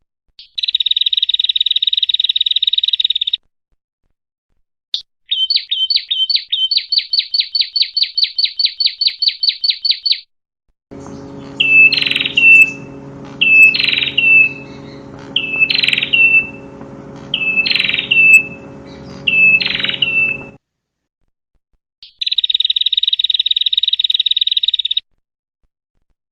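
Small songbird calls in separate bursts. First comes a steady buzzy trill for about three seconds, then a run of quick repeated chirps that speeds up. Next are five separate sharp chirps about two seconds apart over a low steady hum, and near the end the buzzy trill returns.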